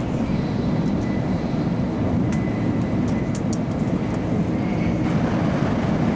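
Steady running noise of a Shinkansen bullet train in motion, heard inside the passenger cabin, with a few faint ticks.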